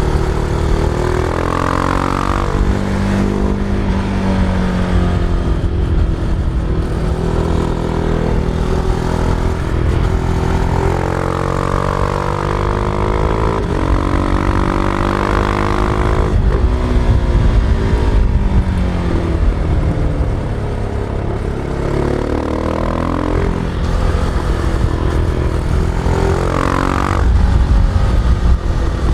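Husqvarna Vitpilen 701's single-cylinder engine heard on board while riding. It rises and falls in pitch several times as the bike accelerates through the gears and slows, with a sudden drop in pitch about 16 seconds in. A steady low rush of wind and road noise runs underneath.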